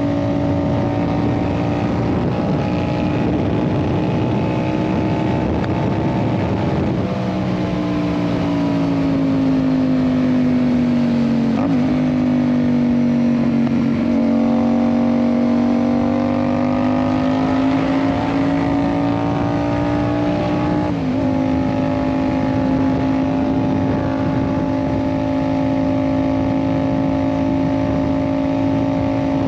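Yamaha MT-07's 689 cc parallel-twin engine through an aftermarket Ixil exhaust, riding at steady part throttle. The pitch drops at an upshift about seven seconds in, dips again briefly near twelve seconds, climbs slowly as the bike gathers speed, then drops at another upshift about two-thirds of the way through before holding steady.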